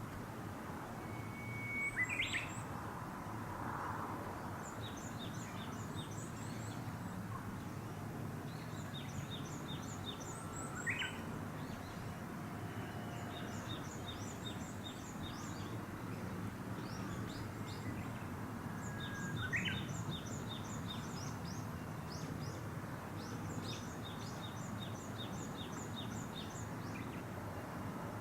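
Birds singing outdoors: about every eight or nine seconds a whistled call, a held note ending in a quick upward flourish, over continual rows of short high twittering chirps and a steady hiss of outdoor background noise.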